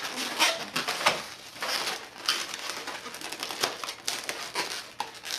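Latex twisting balloons being handled and worked by hand: an irregular run of rubbing squeaks and scrapes as the balloon's inner knot is pulled through the twisted sections.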